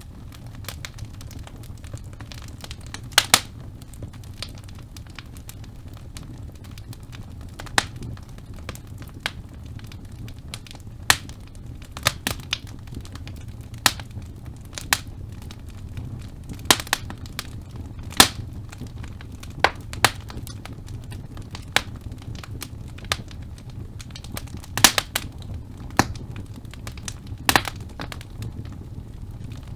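Wood fire burning in a fireplace: a steady low rumble of flames with irregular sharp pops and crackles from the burning logs every second or so.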